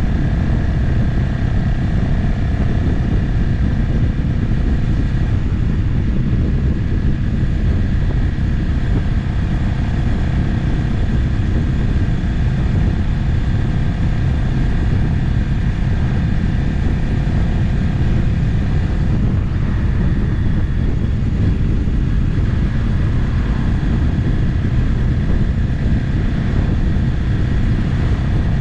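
Motorcycle cruising at a steady speed, its engine note holding steady under heavy wind noise on the camera microphone.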